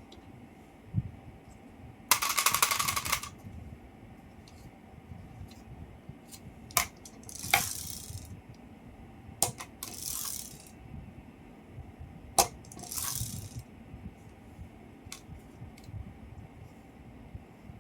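Small hard objects rattling and clinking: a dense rattle lasting about a second, then three sharp clicks, each followed by a short high jingle.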